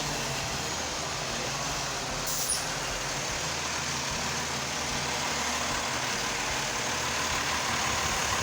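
Heavy truck's engine running as it drives slowly past, with a steady wash of road noise that grows slightly louder towards the end and a brief sharp hiss about two seconds in.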